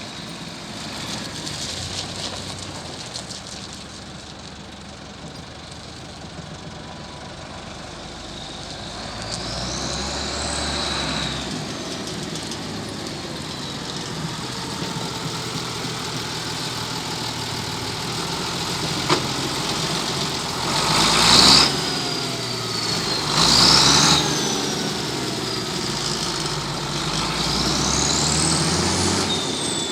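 Case International 1255XL tractor's diesel engine running, its pitch rising and falling several times as it is revved, with two short louder surges about two-thirds of the way through.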